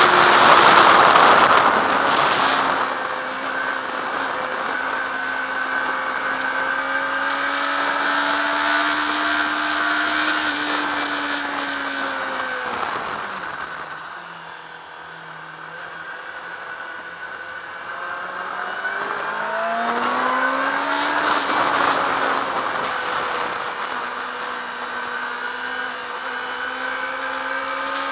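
Yamaha R6's inline-four engine heard from an onboard camera at speed on a track lap, with loud wind rush at the start. The engine note holds and slowly climbs, drops away as the bike slows about halfway through, then rises again as it accelerates, climbing hard at the very end.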